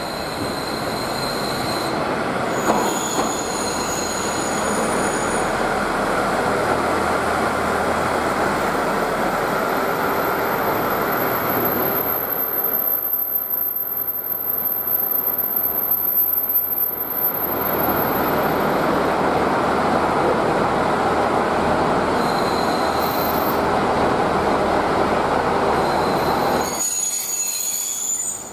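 KiHa 40-type diesel railcar train rolling slowly into the platform with engine and wheel noise and a thin high squeal of the wheels on the rails. The sound dips for a few seconds midway and drops off near the end as the train comes to a stand.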